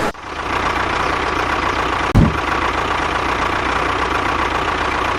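Mini tractor engine running steadily at idle, with one short thump about two seconds in.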